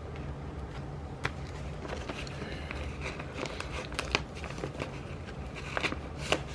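Paper sticker sheet and planner pages being handled: light crinkling with a few sharp small clicks and taps as stickers are peeled off and pressed down, over a steady low hum.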